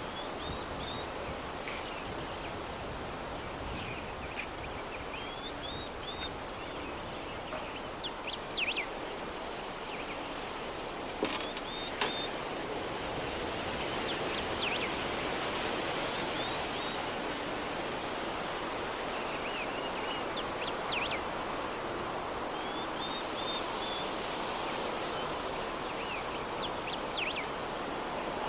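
Soft, steady breeze ambience with small birds chirping in short bursts every few seconds, and a single faint click near the middle.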